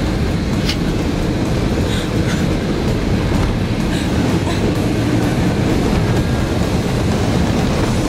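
Steady engine and road noise inside the cab of a trophy race truck running fast over desert track, with occasional rattles and knocks from the body.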